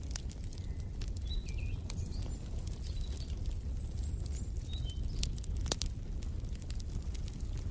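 Wood fire crackling in a fireplace: a steady low rumble with scattered sharp pops, the loudest a little past the middle. A few short, faint bird chirps sound in the first two-thirds.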